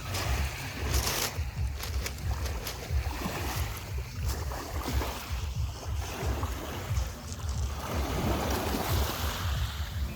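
Wind buffeting the microphone in an uneven low rumble, over a rushing noise that swells and fades.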